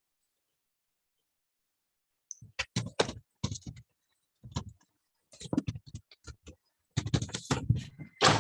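Computer keyboard typing: irregular bursts of keystrokes, starting after a couple of seconds of silence.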